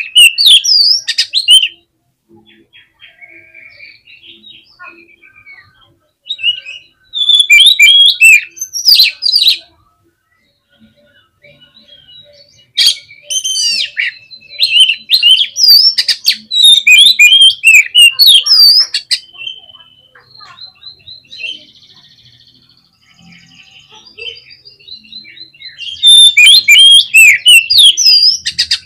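Oriental magpie-robin (kacer) in full song: loud bursts of rapid, varied whistles and chattering notes, each burst a few seconds long, with fainter scattered notes in the gaps between them.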